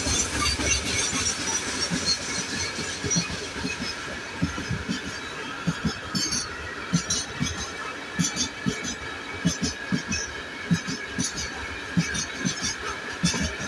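Long freight train of coal gondola wagons rolling past at speed, wheels knocking repeatedly over rail joints with a steady rumble.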